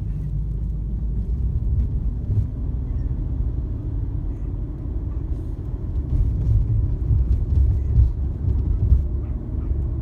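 Road noise inside a moving car's cabin: a steady low rumble from tyres and engine.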